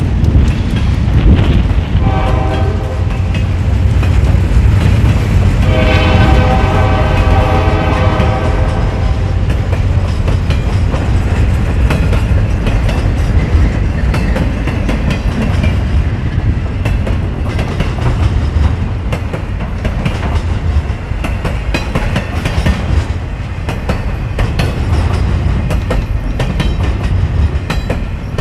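Freight train passing close by: a steady rumble and clatter of wheels over the rail joints as boxcars and then container-laden intermodal well cars roll past. A multi-chime locomotive horn sounds three times in the first nine seconds: a blast ending about a second in, a short one around two seconds, and a longer one from about six to nine seconds.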